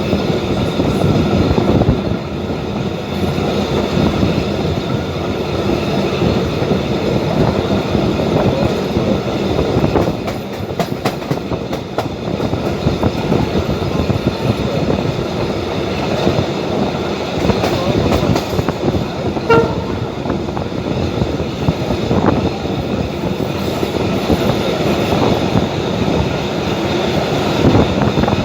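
Passenger train running along the line, heard from aboard: a steady rumble and rattle of the wheels on the rails, with a few sharp clicks from the track about a third of the way in.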